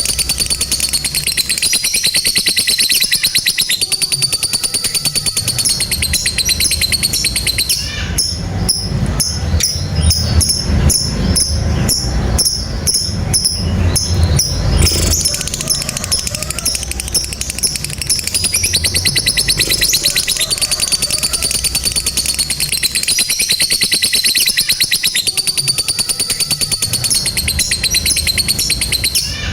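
Lovebird doing its long 'ngekek' song: a high, very rapid chattering trill held in long runs with short breaks. The runs are rougher and fuller from about a third of the way in to about halfway.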